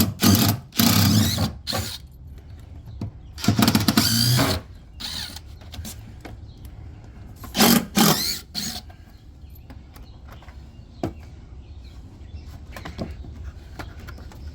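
Power drill run in several short bursts of about a second each, in the middle of taking apart porch steps.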